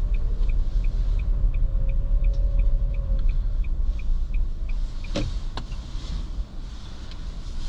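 Car interior, with a steady low rumble of engine and road noise from a vehicle moving slowly. A faint regular ticking, about three ticks a second, stops about five seconds in, and two sharp clicks follow.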